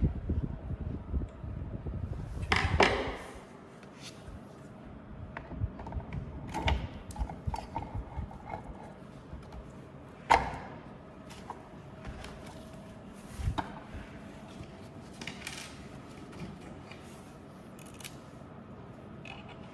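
Scattered clicks and knocks of metal and plastic parts being handled and fitted while the armature of a belt sander is installed in its housing. The louder knocks come about three seconds in, about ten seconds in and about thirteen seconds in.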